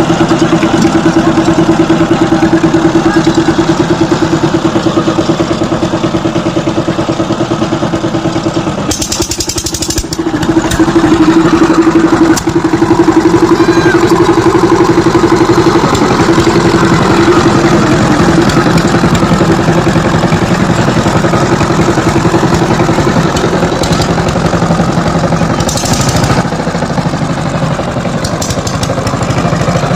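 Power tiller engine running steadily, dipping briefly about nine seconds in before coming back louder.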